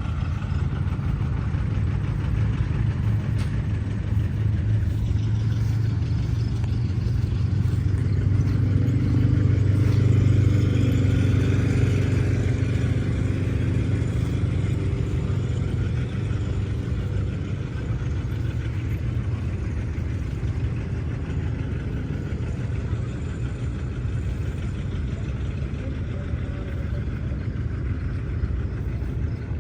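An engine running steadily with a low drone, getting louder for a few seconds around ten seconds in and then easing back.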